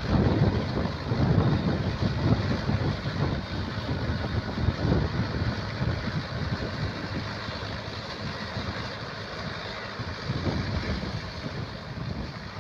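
Farm tractor engine running, with wind buffeting the microphone; it grows fainter over the second half.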